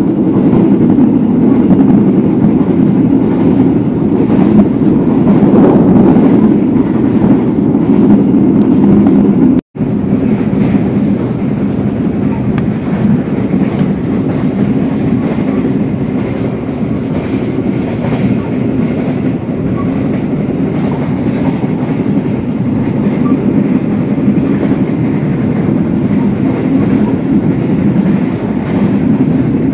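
Steady rumble of a moving passenger train heard from inside a 1996-built executive coach, with light scattered clicks of the wheels over the rails. The sound cuts out for an instant about ten seconds in, then carries on slightly quieter.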